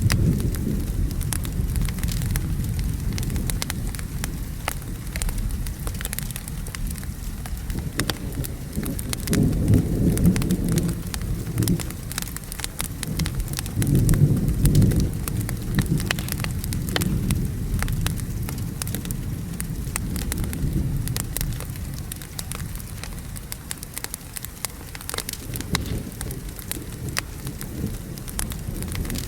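Wood fire crackling with many sharp pops over steady rain, while low rolling thunder rumbles throughout and swells twice, about ten and fifteen seconds in.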